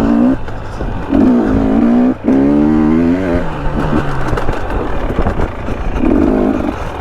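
KTM 300 two-stroke dirt bike engine revving up and down in repeated bursts while riding, the pitch climbing and dropping with each throttle change, with a brief dip in sound about two seconds in. Scattered clattering knocks come from the bike working over rough ground.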